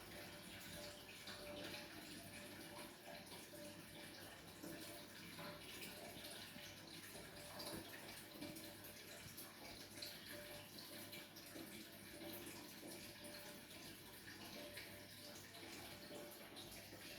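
Faint, steady trickle and splash of water circulating through an aquarium's overhead sump filter, with a low steady hum underneath.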